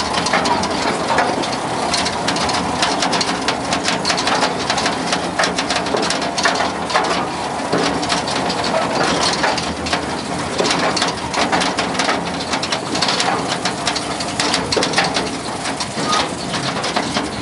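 Small open-car tourist train rattling and clattering as it moves along: a dense run of irregular knocks and rattles over a steady rushing noise.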